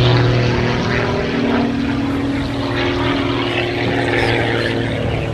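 Pitts S-2S aerobatic biplane's 260-horsepower piston engine and propeller, a steady drone whose pitch shifts slightly as the aircraft accelerates out of a manoeuvre, fading a little toward the end.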